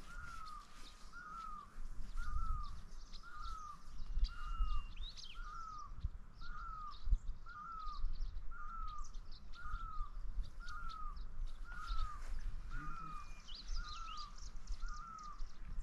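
A bird calling the same short, clear, hooked note over and over, about once a second, while other birds chirp faintly higher up.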